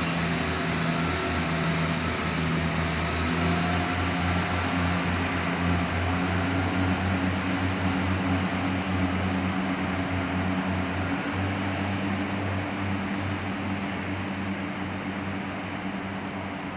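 Diesel train engine running with a steady low hum under a broad rushing noise, slowly growing quieter over the last few seconds.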